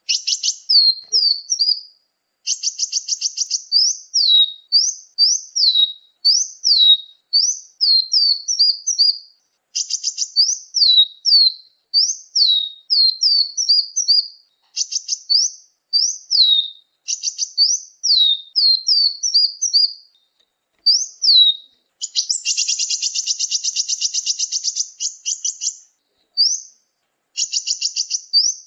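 Bird-lure recording of small songbirds calling: quick runs of short, high, down-slurred chirps, broken by buzzy rattling trills, the longest of them lasting about three seconds past two-thirds of the way in, with clean silence between phrases.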